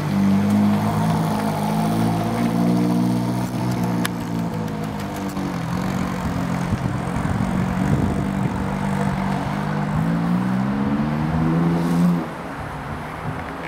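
Ferrari 458 Italia's V8 engine pulling away at low speed, its note rising and falling with the revs. It cuts off suddenly near the end.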